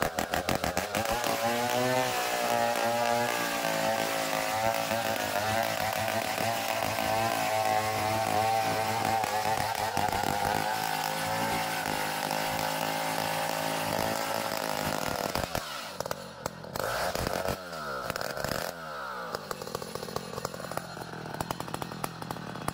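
Chainsaw engine held at full throttle cutting a long Borneo ironwood (ulin) log. About two-thirds of the way through it drops off the throttle and revs up and down at a lower level.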